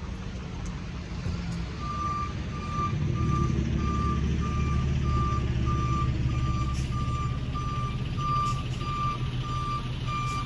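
High-pitched Siemens/Safetran Type 3 electronic crossing bell starting to ring about two seconds in, a clean beep repeating about two and a half times a second: the crossing has activated for an approaching light rail train. Underneath, a low vehicle rumble grows louder about three seconds in and is the loudest sound.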